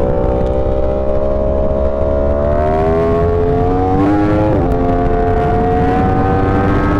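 Yamaha R1M sport bike's inline-four engine pulling under acceleration at speed, its pitch climbing steadily, then briefly dipping and recovering about four seconds in before holding steady, with a constant low wind rumble.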